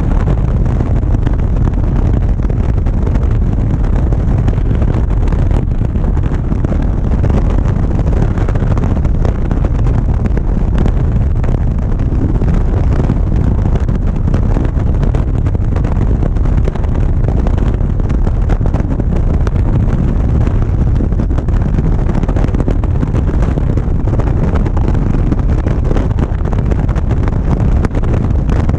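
Motorcycle riding at road speed: a steady rush of wind buffeting the camera microphone, with a low rumble underneath.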